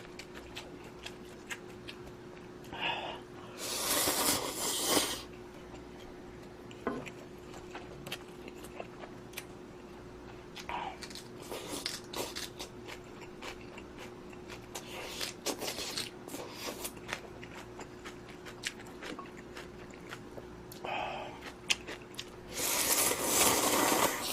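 A person eating instant budae-jjigae ramen close to the microphone: chewing with many small wet clicks, and louder, longer noisy stretches about four seconds in and again near the end. A faint steady hum runs underneath.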